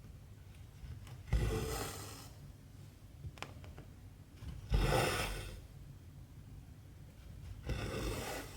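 Cotton embroidery thread being pulled through 14-count cross-stitch fabric: three rasping swishes, each about a second long and roughly three seconds apart, with a couple of faint ticks between them.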